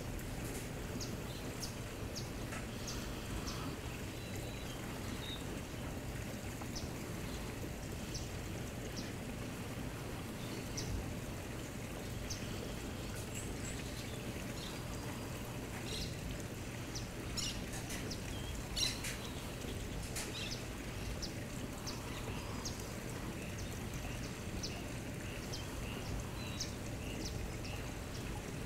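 Outdoor ambience: birds chirping in short, scattered calls over a steady low hum and background noise.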